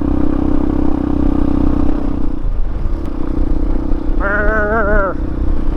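Hawk 250 single-cylinder motorcycle engine running steadily under way, its note dipping briefly about two and a half seconds in. A short call or voice sound lasts about a second, starting about four seconds in.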